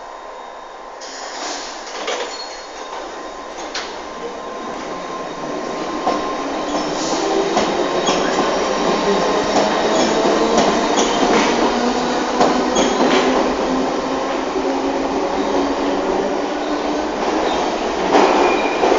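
London Underground C stock train running on the rails, growing louder over the first half. Steel wheels squeal, with scattered clicks from rail joints.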